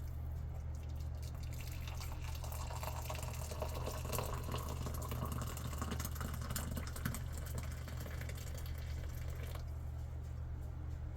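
Water running or being poured for several seconds, stopping abruptly near the end, over a steady low hum.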